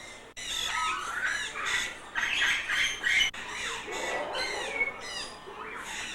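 Captive birds squawking: a quick run of harsh, rising and falling calls, one after another.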